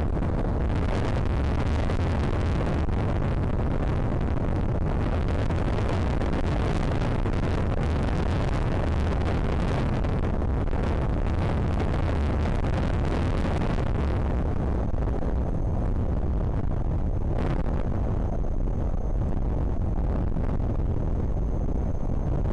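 Strong wind buffeting the microphone: a steady, rumbling rush of noise that eases a little in its upper part about two-thirds of the way through.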